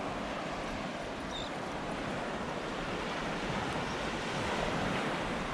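Surf washing on a Gulf beach with wind buffeting the microphone: a steady rush that grows a little louder toward the end.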